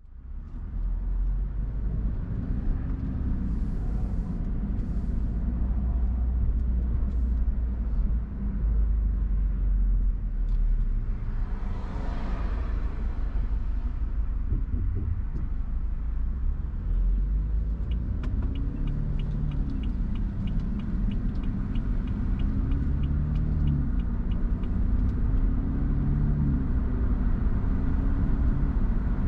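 A car driving along the road: steady low road and engine rumble, the engine's pitch rising and falling in the later part. A brief hissing whoosh comes about twelve seconds in, and a fast, even ticking runs for several seconds near the end.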